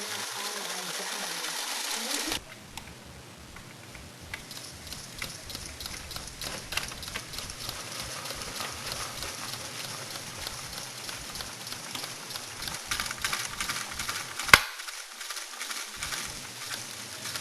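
Scale model car wash running: a spray-like hiss that cuts off abruptly a couple of seconds in, then small mechanical clicking and crackling, with one sharp click near the end.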